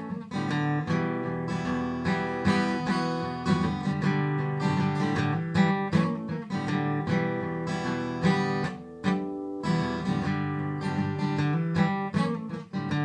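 Acoustic guitar playing an instrumental blues passage, strummed chords mixed with picked notes, with no singing.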